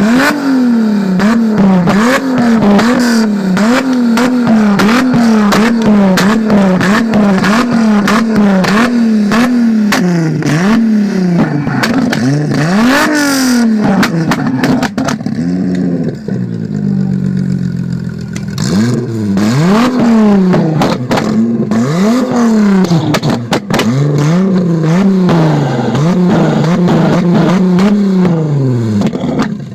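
Straight-piped VW Corrado engine being revved hard in quick repeated blips, about one a second, with sharp exhaust crackles throughout. Its revs drop and settle briefly about two thirds of the way through, then the blipping resumes.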